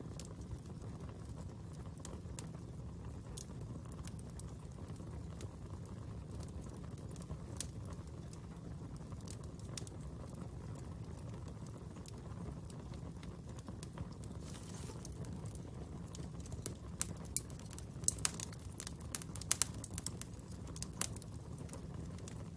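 Fire crackling, with scattered sharp pops that come more thickly in the last few seconds.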